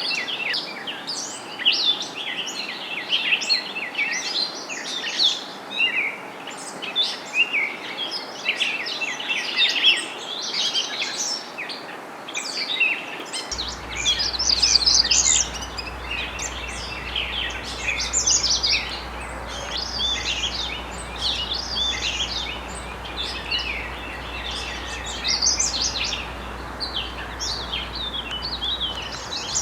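Several songbirds singing at once, a dense chorus of overlapping chirps and songs with no pause. A faint low steady hum comes in about halfway through.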